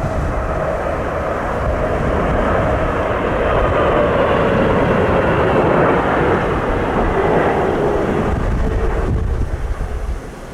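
Jet airliner passing low on landing approach: engine noise swells and then fades, with a whine falling slowly in pitch as it goes by. Heavy wind rumble on the microphone.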